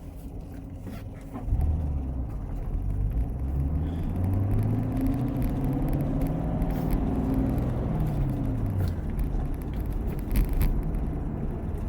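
The 6.2-litre V8 of a C7 Corvette accelerating: a low engine rumble comes in suddenly about a second and a half in, and its note climbs, then falls back as it eases off.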